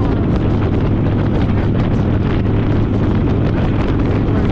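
Harley-Davidson Fat Boy's V-twin engine running steadily at road speed, with heavy wind buffeting on the microphone.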